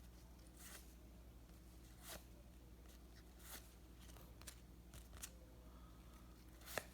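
Faint, scattered clicks and rustles of baseball trading cards being slid and flipped through by hand, over a low steady hum.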